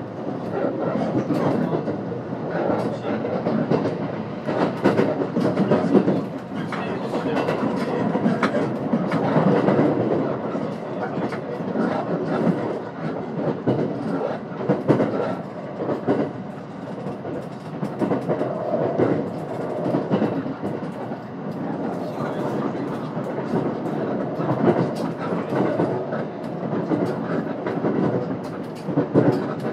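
Inside a 521-series electric train running between stations: a steady rumble of wheels on rail, with repeated clatter as the wheels pass over rail joints.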